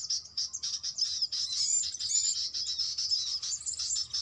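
Small birds chirping and twittering in a rapid, continuous chatter of high notes, with a few short sliding whistles.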